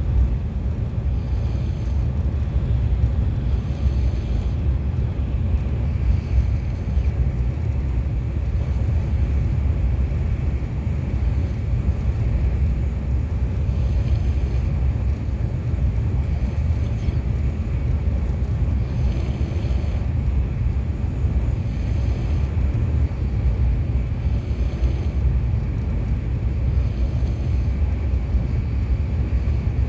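KTX high-speed train running steadily at speed, a continuous low rumble heard inside the passenger cabin.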